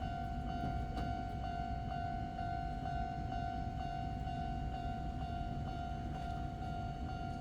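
Izuhakone Railway 3000 series electric train pulling slowly into a station, a low steady rumble as it slows. Over it a constant high ringing tone pulses about twice a second.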